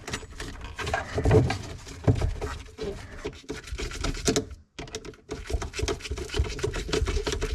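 Dishwasher drain hose being worked back onto the drain fitting under a sink by hand: scattered rubbing, scraping and small plastic clicks and knocks, with a brief pause about halfway through.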